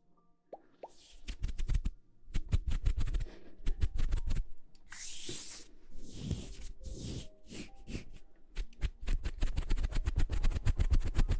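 ASMR triggers made right at the microphone: quick runs of soft taps and plops with deep thumps, a short breathy rush of blown air about five seconds in, then a fast, even patter of taps near the end.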